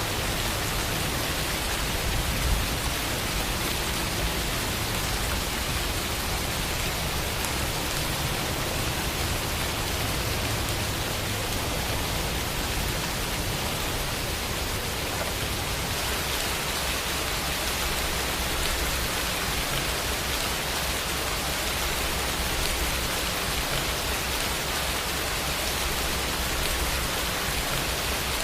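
Steady rain falling, a dense even hiss of drops with no pauses.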